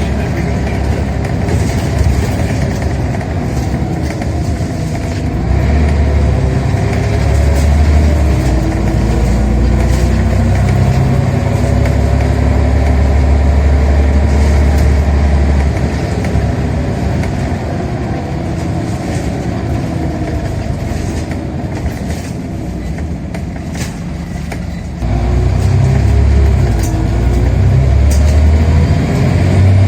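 Scania OmniCity bus's diesel engine and ZF automatic gearbox heard from inside the bus on the move: the engine pulls hard with a heavy rumble, eases off in the middle, then comes back on power suddenly about 25 seconds in, its pitch rising and falling through the gears.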